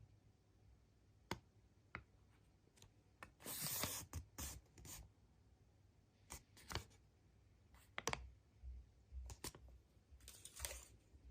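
Quiet hand-handling of surprise-egg capsules and wrappers: scattered sharp plastic clicks and several short crinkling rustles. The longest and loudest rustle comes about three and a half seconds in.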